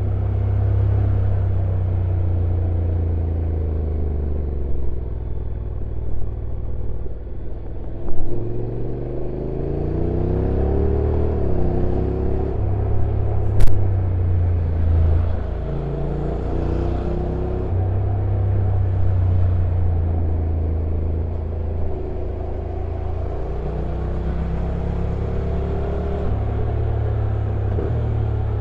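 Honda NC750X's parallel-twin engine running on the move downhill. Its note rises and falls with speed and the dual-clutch gearbox's shifts, over a steady rumble. A single sharp click about 13 to 14 seconds in is the loudest moment, with a few smaller knocks earlier.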